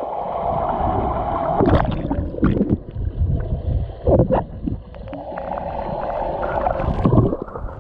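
Pool water sloshing and gurgling, with several short splashes.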